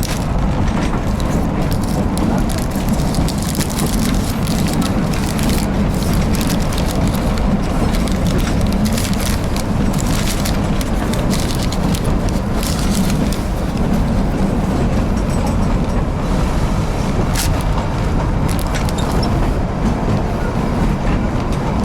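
Kalka–Shimla narrow-gauge toy train running: a steady loud rumble with occasional sharp clicks and knocks.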